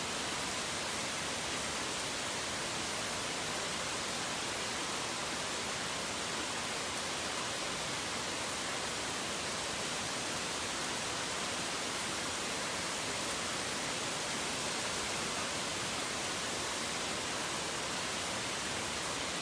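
Steady heavy rain, a dense even hiss with no thunder or birdsong heard.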